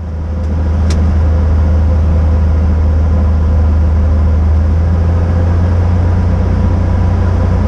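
Engine and propeller drone of a 1954 Cessna 170B in flight, heard inside the cabin: a loud, steady low hum that swells about a second in and then holds.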